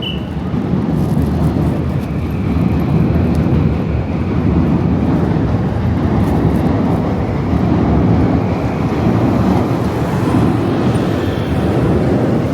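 Loud, steady low rumble of heavy vehicle noise on a city street.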